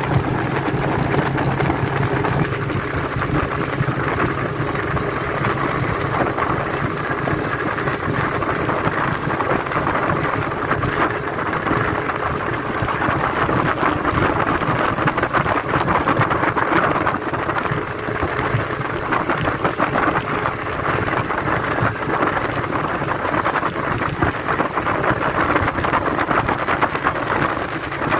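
Speedboat running fast over the sea: a steady, loud rush of wind on the microphone and water spray against the hull, with the boat's engine drone audible in the first few seconds and then buried under the rush.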